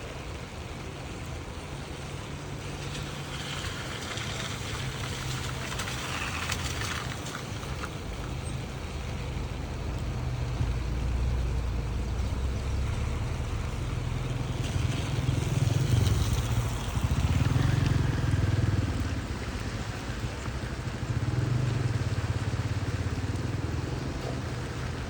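Motor vehicles passing on a rain-soaked street: a low engine and tyre rumble swells and fades several times over a steady hiss of rain and water.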